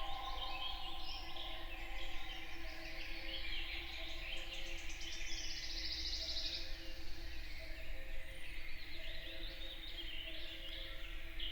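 Woodland morning bird chorus: several songbirds calling and singing at once, with a fast, high trill about halfway through. A steady low hum runs underneath.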